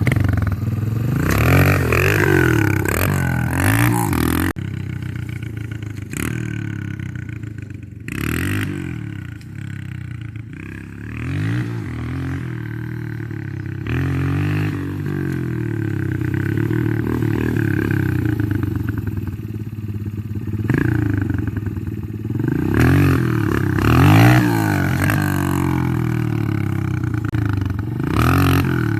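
Dirt bike engine being ridden, revving up and dropping back again and again as the throttle opens and closes and the gears change. There are a few short rushes of noise in the first third.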